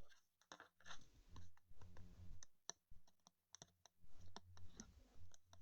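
Faint, scattered light clicks and soft rustles of trading cards and their sleeves being handled and sorted on a table.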